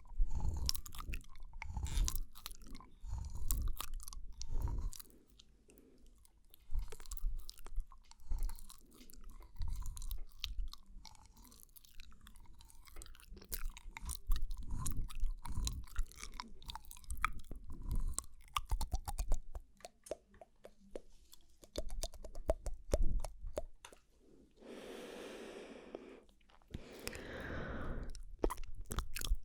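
Close-miked ASMR mouth sounds: a steady, irregular run of wet clicks, smacks and tongue pops, with two breathy sounds a few seconds before the end.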